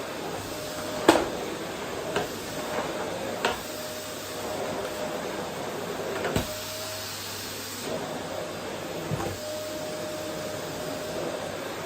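Vacuum cleaner running steadily on a wooden floor, its drone carrying a faint whine that comes and goes. A few sharp knocks sound over it, the loudest about a second in.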